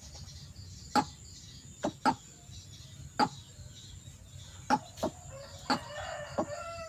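White-breasted waterhen (ruak-ruak) giving short, harsh clucking calls about once a second, with a quicker run of wavering calls near the end.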